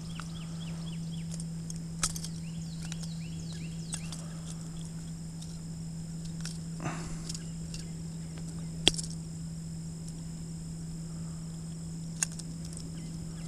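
Steady insect chorus with a constant low hum beneath it. Rapid falling chirps come in the first few seconds, and a few sharp single clicks are scattered through.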